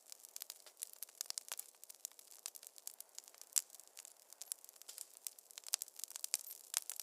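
Wood fire crackling in a fireplace: dense, irregular sharp pops and snaps over a faint hiss, with one louder pop about three and a half seconds in.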